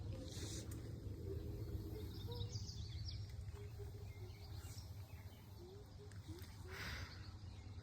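Scattered faint bird chirps and short whistled calls, most between about two and seven seconds in, over a steady low rumble of outdoor background noise.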